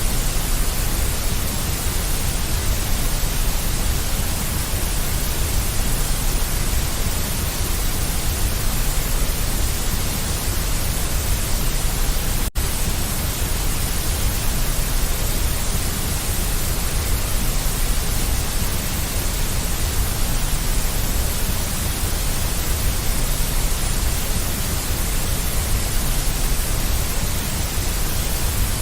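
Steady synthetic deep white noise, an even hiss with a strong low rumble underneath, broken once by a split-second dropout about twelve seconds in.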